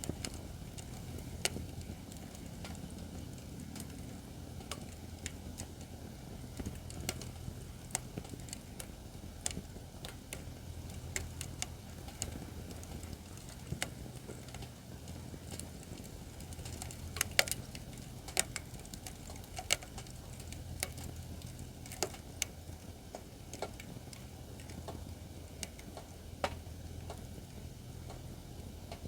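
Acacia firewood burning in a fire pit, crackling with irregular sharp pops over a low steady rumble, with a quick run of louder pops a little past halfway.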